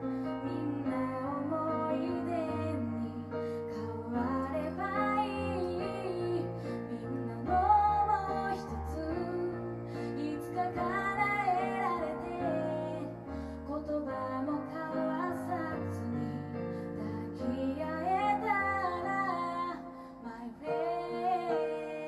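Female vocalist singing a song live, accompanied by keyboard in a small acoustic band.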